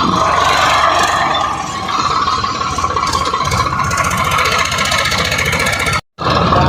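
Swaraj 744 XT tractor's diesel engine running steadily, cutting out abruptly for a moment near the end.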